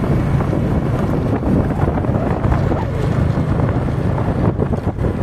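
Wind buffeting the microphone over the steady low rumble of a moving motorcycle and road noise.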